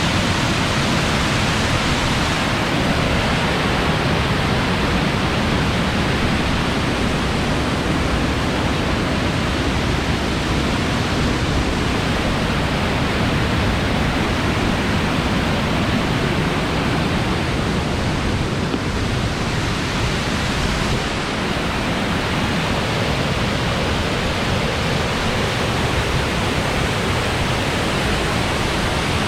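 Waterfall's steady rush of falling water, loud and unbroken.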